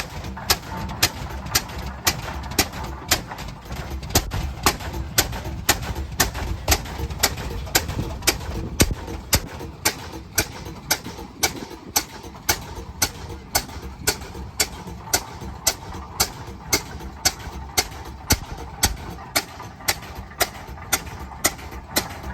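Antique tractor engine running slowly, each exhaust stroke a sharp, even pop, about two to three a second, over a low rumble.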